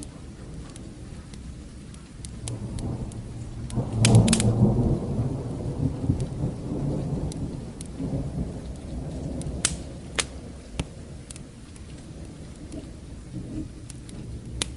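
A deep thunder rumble swells about two seconds in, is loudest around four seconds and slowly dies away, over steady rain. Sharp crackles and pops of a wood fire are scattered throughout.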